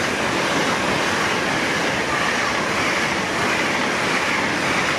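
Long-distance express train from Edinburgh Waverley running through the station at speed without stopping: a steady, loud noise of wheels on rail that holds even throughout.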